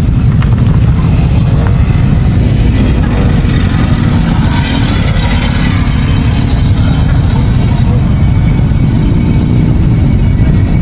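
Many motorcycle engines running together in a steady, loud rumble.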